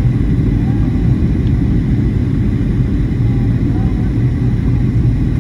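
Steady low rumble of an airliner cabin in flight, from engine and airflow noise, with faint voices in the background.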